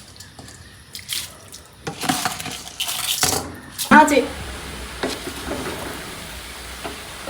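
Soaked rice being tipped into a kadhai of chicken and water and stirred in: wet splashing and stirring noise in bursts from about two seconds in, with a short voice near the middle.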